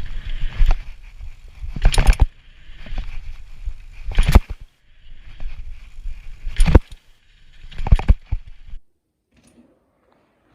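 Hardtail mountain bike riding over rough trail: tyres rumbling on the dirt while the bike rattles, with sharp knocks over bumps every second or two. The sound cuts off suddenly near the end.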